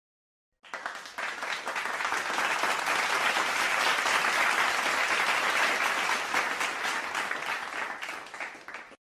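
Applause from a crowd, many hands clapping together; it starts about half a second in, builds, holds steady and fades away near the end.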